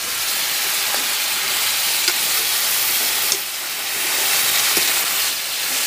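Freshwater snails in their shells sizzling as they are stir-fried in a wok, a metal spatula stirring them with a few light clicks, under the steady hiss of heavy rain.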